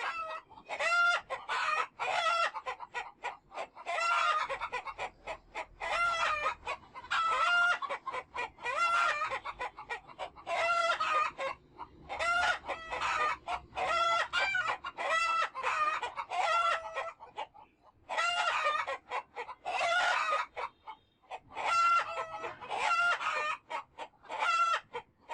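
Chickens clucking and roosters crowing, many loud pitched calls in quick succession, often overlapping, with a few short pauses.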